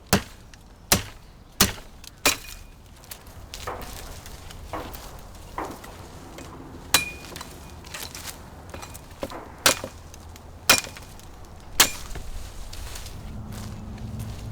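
Sharp chopping strikes into wood, about eight heavy blows at uneven intervals, several with a brief metallic ring.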